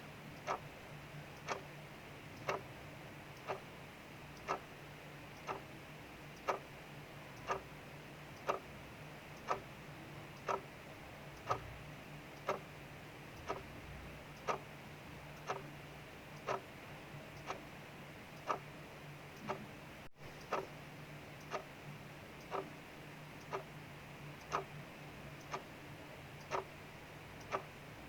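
Mechanical clock ticking steadily, about two ticks a second, alternating a louder and a softer tick, over a faint steady hiss of rain.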